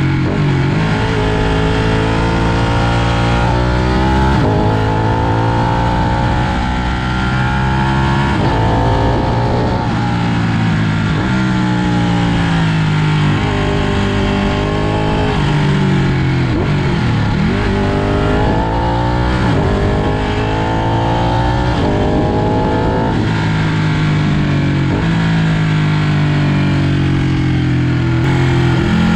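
Ducati Panigale superbike engine under way, its pitch rising and falling again and again as the rider accelerates, shifts and slows.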